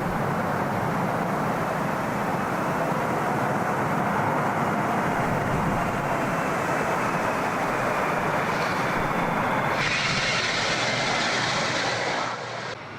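Jet airliner engines and gusting storm wind as a plane comes in to land in a gale, a steady loud rush of noise. About ten seconds in, a brighter, higher hiss with a thin whine takes over, and about two seconds later the sound drops away.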